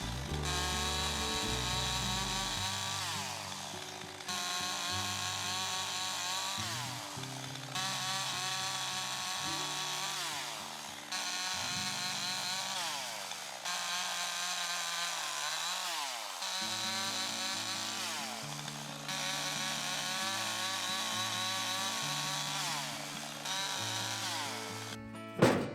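Chainsaw cutting firewood in a series of cuts a few seconds each, its engine pitch sagging and recovering under load. Background music with steady bass notes plays beneath it.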